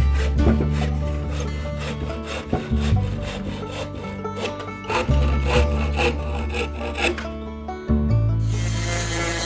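A hand tool working wood in repeated short strokes, over background music with a steady bass line that changes note every few seconds. Near the end the strokes give way to a steadier rubbing hiss.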